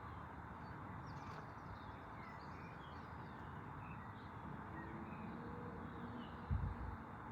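Faint short bird chirps over a steady background noise, with a low thump about six and a half seconds in.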